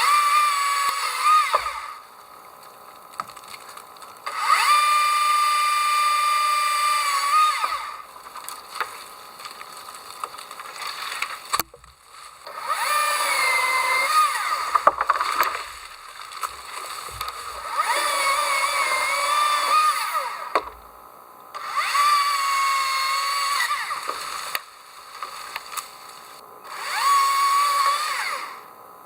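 A small motor, like a power tool's, run in about six bursts of a few seconds each, with a steady pitch that rises as it speeds up and falls as it stops, and short pauses in between.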